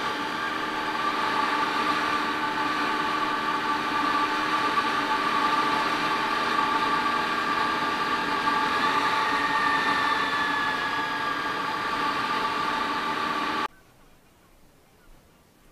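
Honda VFR400 NC30's V4 engine running at a steady road speed, with wind noise. It cuts off abruptly about fourteen seconds in, leaving near quiet.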